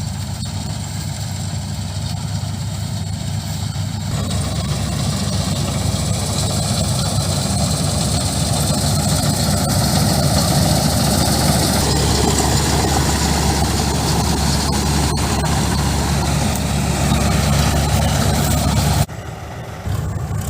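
Combine harvester running: its diesel engine hums steadily under the noise of the machinery. It grows louder from about four seconds in, then drops off suddenly near the end.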